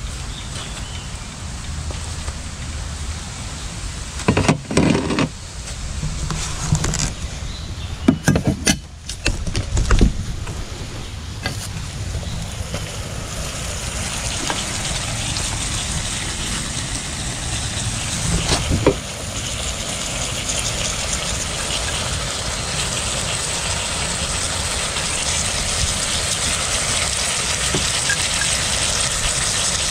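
Food sizzling in a pan over a gas camp stove, the hiss growing steadily louder through the second half. A few knocks of utensils or cookware come in the first half.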